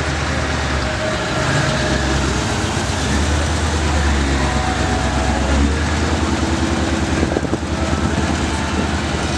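Car engine running with a steady, rapid, rhythmic exhaust pulse; the pulsing changes character about six seconds in.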